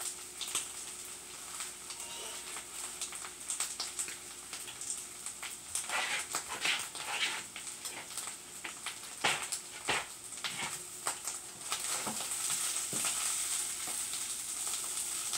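Corned beef hash frying in a skillet: a steady sizzle with irregular crackles and pops as the fat cooks off and the hash crisps. About twelve seconds in the sizzle grows louder as the hash is stirred with a wooden spatula.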